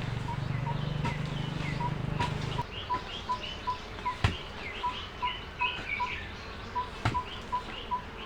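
Birds calling outdoors: curved chirps and a short, even note repeated about three times a second. A few sharp knocks stand out, the loudest about halfway through, and a low hum stops about a third of the way in.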